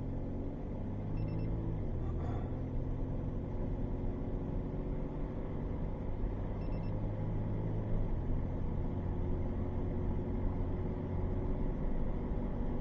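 Steady vehicle engine and road drone, heard from inside a car, with two faint short high blips about a second in and again about seven seconds in.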